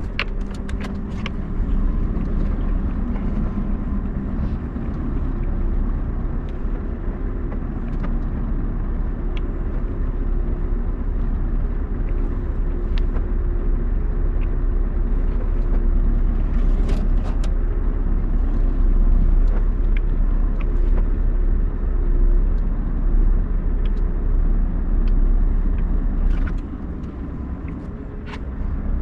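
Scania R580 truck's V8 diesel engine running under way, a steady low rumble with scattered small clicks and rattles. It quietens about 26 seconds in.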